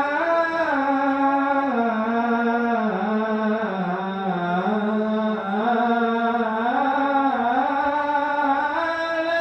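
A man's solo voice chanting Arabic mawlid recitation, one long drawn-out phrase held without a break, its pitch winding up and down in ornamented turns before it stops near the end.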